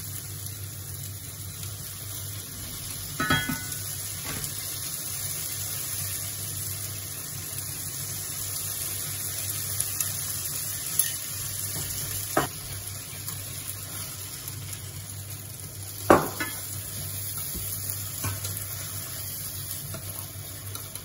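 Bell pepper and tofu sizzling in a frying pan as they are stirred: a steady hiss over a low hum, with a few short clinks of utensils against the pan. The loudest clink comes about 16 seconds in.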